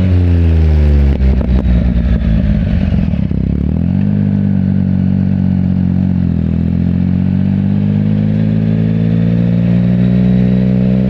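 Yamaha MT-09's three-cylinder engine on the move: the revs drop in the first second and run unevenly for a couple of seconds, then pick up about three and a half seconds in and climb slowly through the rest, with a brief dip near the middle.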